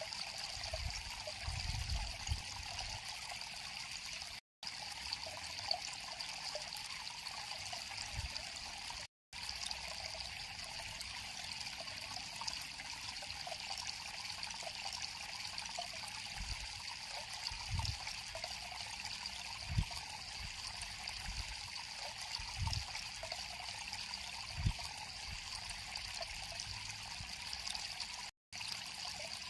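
River water flowing and trickling in a steady rush, with a few soft low thumps. The sound cuts out for an instant three times.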